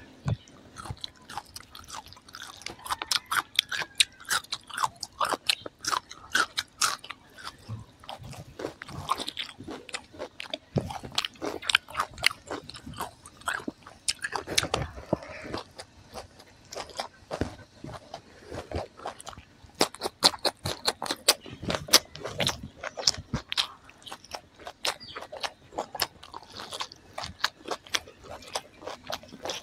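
Close-miked crunching and chewing of crisp raw green vegetable stalks, a dense run of sharp, irregular crunches as they are bitten and chewed.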